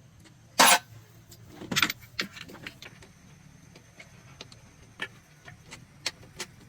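Sharp metallic clanks and clinks of hand tools and metal parts being handled during engine repair work. Two loud clanks come in the first two seconds, followed by scattered lighter clicks.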